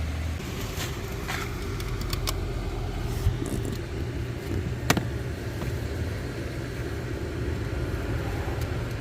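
A steady low engine-like drone, with a few sharp clicks in the first couple of seconds and one sharp knock about halfway through as parts are worked loose under the dashboard.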